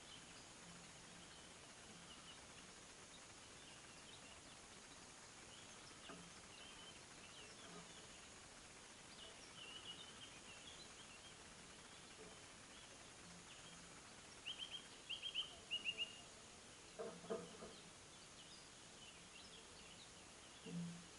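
Songbirds calling faintly over a quiet rural background, with short high chirps scattered throughout. About two-thirds of the way in, a bird gives a louder run of quick falling notes, followed by a brief lower-pitched call.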